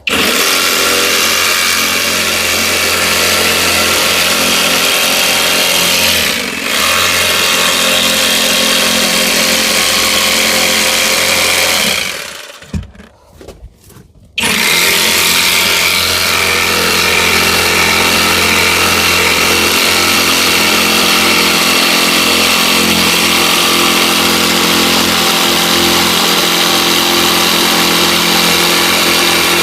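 Electric jigsaw cutting, running steadily with a brief dip about six seconds in and a stop of about two seconds around the middle before it starts again.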